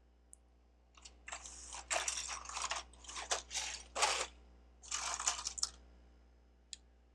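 Hands rummaging through loose plastic Lego bricks: a run of rattling and rustling with a short pause just after four seconds, and a few single clicks of pieces near the start and end.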